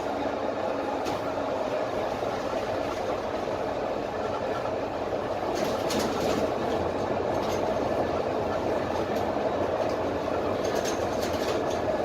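Dennis Trident double-decker bus on the move, heard from inside the lower deck: a steady drone from its Cummins ISMe diesel engine and road noise, a little louder from about halfway through, with brief rattles from the body a couple of times.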